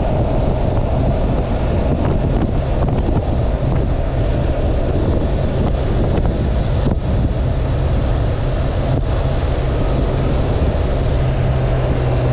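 Wind buffeting the microphone of a motorcycle rider on the move, over the steady low hum of the bike's engine.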